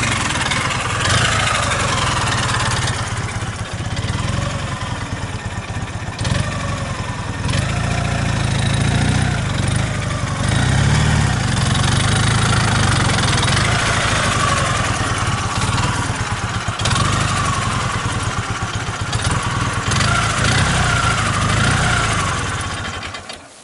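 Motorcycle engine running while riding, its revs rising and falling. The sound drops away sharply near the end.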